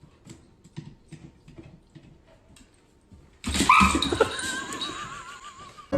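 Faint scattered light taps, then about three and a half seconds in an animal starts a loud, drawn-out call whose pitch wavers.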